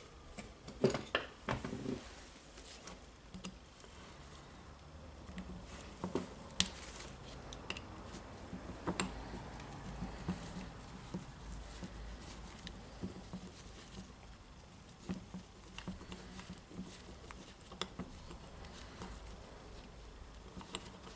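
Scattered light metallic clicks and taps of an Allen key and small steel parts being handled while working a glued screw loose in a rotary hammer's gearbox.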